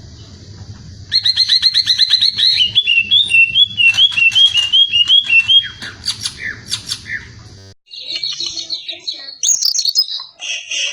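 Greater green leafbird (cucak ijo) singing. It opens with a fast run of repeated high notes, then a string of repeated slurred two-note phrases, and after a short break about two-thirds of the way in, goes on with scattered chattering calls.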